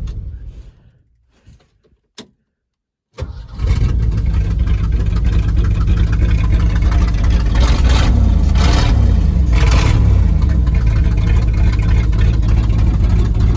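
1971 Ford F-250 Highboy's engine, warm from a good heat cycle, restarting: the sound dies away, and after a short silence the engine fires about three seconds in and runs steadily, with two brief revs near the end.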